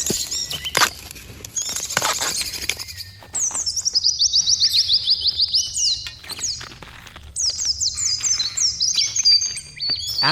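Forest birds chirping and singing, with fast runs of high chirps, one trill about a third of the way in and another near the end. A few sharp clicks or knocks in the first two seconds.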